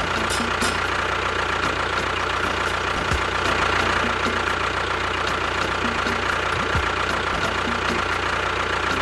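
A small motor running steadily with a constant whine, the drive of a miniature model bulldozer or tractor.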